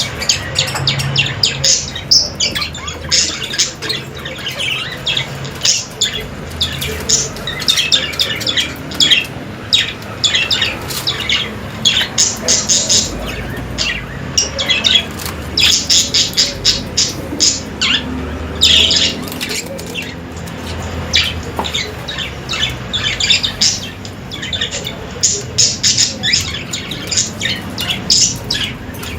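Budgerigars chattering: a steady stream of short, sharp chirps and squawks, many overlapping, coming in quick clusters.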